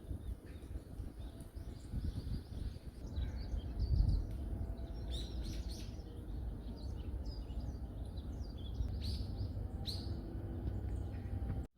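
Small birds chirping in a forest: many short, quick high calls in rapid succession over a steady low rumble. The audio drops out briefly near the end.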